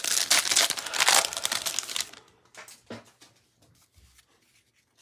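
Trading card pack wrapper crinkling loudly as it is handled and torn open for about two seconds, then a few faint clicks of cards being handled.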